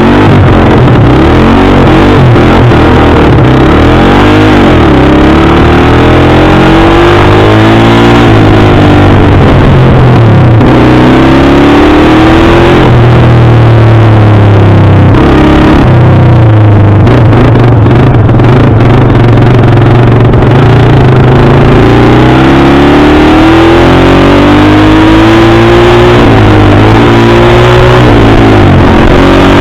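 Loud dirt bike engine revving as it accelerates, its pitch climbing and then falling back several times as the rider shifts up and rolls off the throttle.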